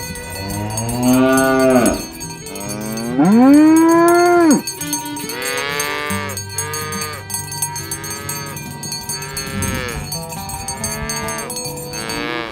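Several cows mooing one after another, about five long calls that rise and then fall in pitch; the loudest comes about three seconds in.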